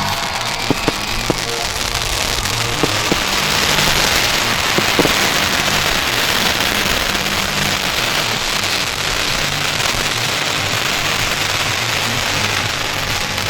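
A large bonfire burning, a steady hiss with scattered sharp crackles and pops, over music playing underneath.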